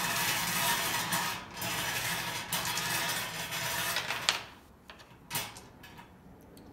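Numbered draw balls rattling against each other as they are mixed, a dense clatter for about four seconds, then a few separate clicks.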